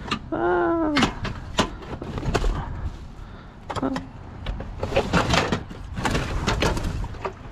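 Junk being shifted and handled in a dumpster: a string of irregular knocks, clanks and scrapes, with a brief pitched vocal sound about half a second in.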